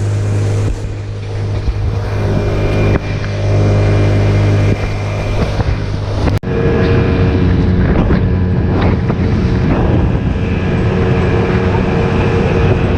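A fishing boat's motor running under way, a steady engine hum with wind buffeting the microphone and water noise. About six seconds in the sound changes abruptly to a rougher, noisier run.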